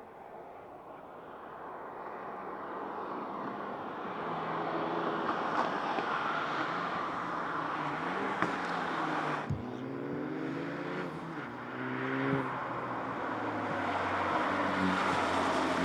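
Hyundai i30N's 2.0-litre turbocharged four-cylinder engine accelerating hard, its note climbing through the revs and breaking for upshifts about ten and twelve seconds in and again near the end. A rush of tyre and wind noise builds in the first few seconds.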